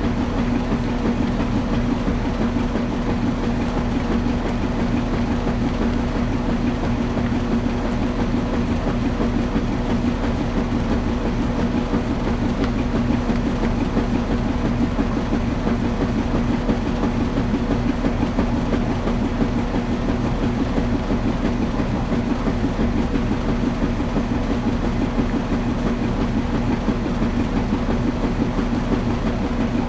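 Washing machine running steadily: a constant motor hum with a fast, even rattle of the turning drum.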